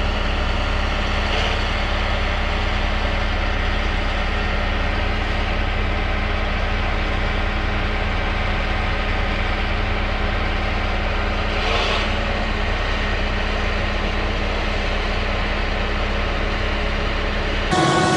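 Heavy vehicle engine running steadily, a low even drone. Near the end it cuts to a different, slightly louder sound with strong steady tones.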